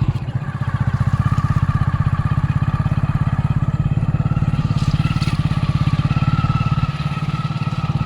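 Motorcycle engine running at a steady pace while being ridden, with an even, rapid firing beat.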